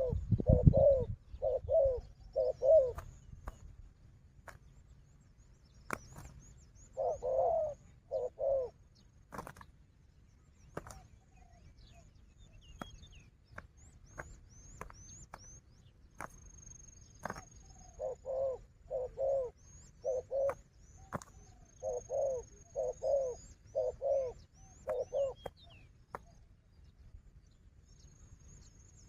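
Spotted doves cooing in runs of short, throaty notes: four at the start, a pair about seven seconds in, and a longer run of about a dozen past the middle. Faint, quick high chirps from a small bird and scattered sharp clicks are heard beneath the cooing.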